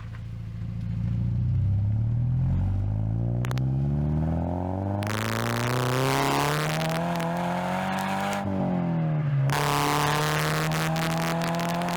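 Toyota GT86's 2.0-litre flat-four exhaust under hard acceleration, recorded close to the tailpipe: the revs climb steadily, drop at a gear change about eight and a half seconds in, then climb again. At higher revs the sound turns harsh and broken up, a sign of the recorder overloading on a car this loud.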